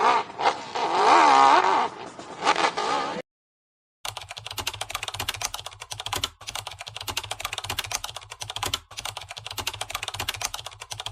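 Dirt bike engine revving up and down for about three seconds, then cut off suddenly. After a short silence comes a fast, dense clicking, like typing, over a low pulsing hum, running on steadily.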